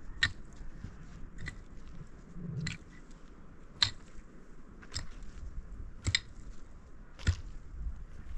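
A series of sharp crunching strikes at an even pace, about one every second, seven in all.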